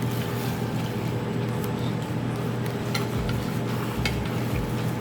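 Restaurant room tone: a steady low hum with a few faint clicks of tableware.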